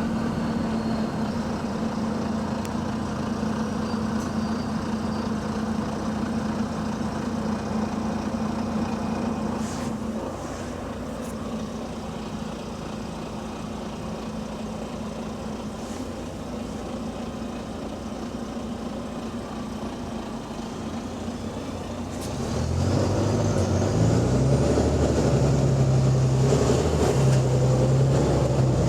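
Diesel engine of a Wright-bodied Volvo double-decker bus with an exhaust leak, running steadily. Near the end it grows louder, its low note stepping up and down between pitches.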